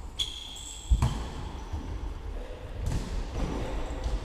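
A football struck by a kick, one sharp thud about a second in, with a short high squeak just before it and the low shuffle of play around it.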